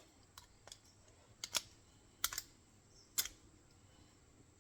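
Short, sharp clicks and taps, about half a dozen at irregular intervals, of the steel parts of an MB-550 foothold trap (springs, levers and frame) being handled and fitted together during a rebuild.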